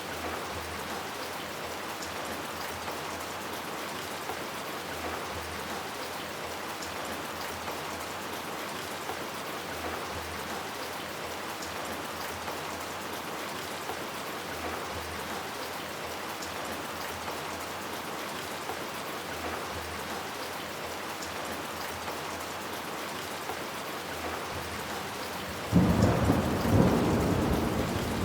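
Steady rain falling, then near the end a sudden loud roll of thunder breaks in and rumbles on over the rain.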